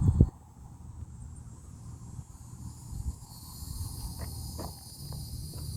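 Insects droning in a steady high chorus that swells in about three seconds in, over a low rumble, with a few thumps at the very start.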